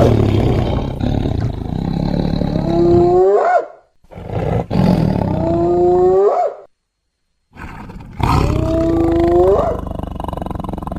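Tiger roars mixed with hyena calls, three times with short gaps between. Each loud, rough roar ends with a pitched call that rises sharply in pitch.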